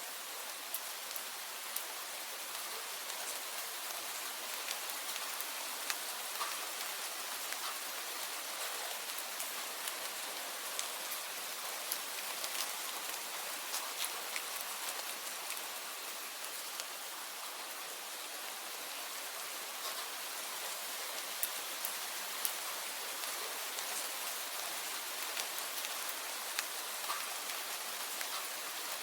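Steady rainfall, an even hiss with many separate drops pattering and ticking on a surface.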